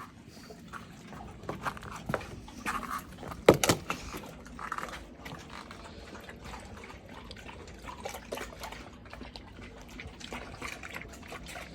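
Wet splashing and dripping from dog food soaked in hot water, with scattered clicks and one sharp clink about three and a half seconds in.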